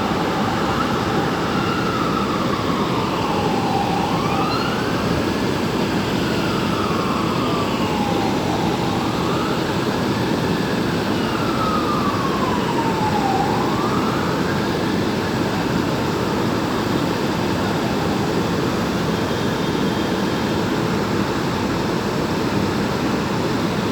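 An emergency vehicle's siren wailing, slowly rising and falling in pitch about three times, then fading out about fifteen seconds in. Steady city traffic noise runs underneath.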